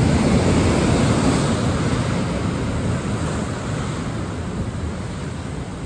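Storm noise: a loud, steady rush of water with wind buffeting the microphone, strongest at the start and slowly easing.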